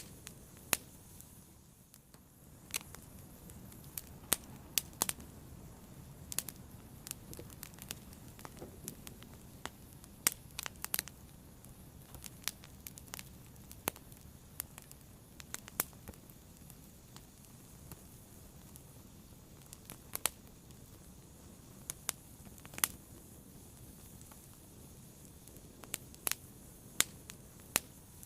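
Fire crackling: irregular sharp pops and snaps over a low, steady hiss.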